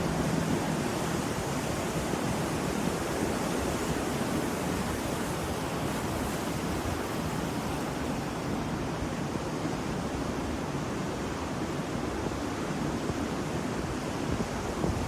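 Ocean waves washing in a steady rush of surf, swelling a little near the end.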